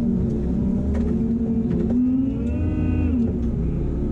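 Kramer loader's diesel engine running, revving up around two seconds in and dropping back just after three seconds.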